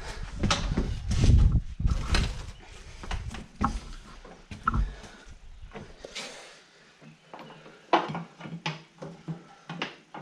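Irregular knocks, clunks and scraping of hand work on a mower deck as a belt is worked onto its pulleys. The loudest thumps come about one to two seconds in, with another sharp knock near eight seconds.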